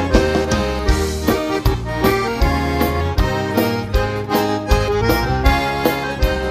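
Instrumental break of a gaúcho dance-band song: accordion (sanfona) playing the melody over a steady dance beat with bass and drums.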